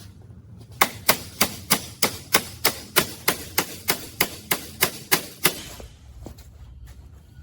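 A hammer striking metal about sixteen times in an even run of roughly three blows a second, stopping about five and a half seconds in.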